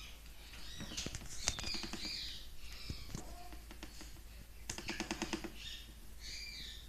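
Parrot tapping in two bursts of rapid taps, one about a second in and one about two-thirds through, with short chirping calls between them.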